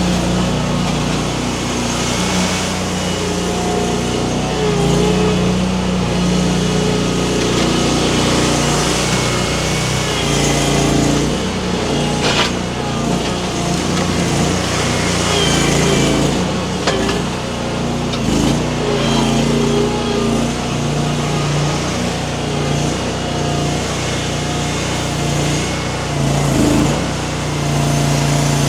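Mini skid steer's small engine running at working speed, its pitch rising and falling as the machine drives and the grapple loads up, with a sharp knock about twelve seconds in.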